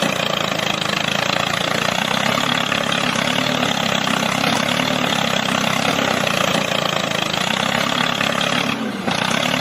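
Mini tractor engine running steadily while ploughing, briefly dropping in level with a short falling pitch near the end.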